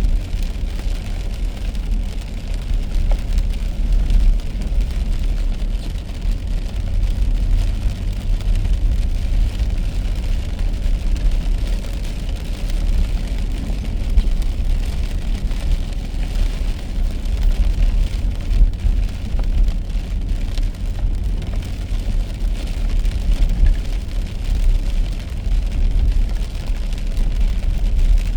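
Car driving on a wet road in the rain: a steady low road rumble under an even hiss of rain and tyre spray.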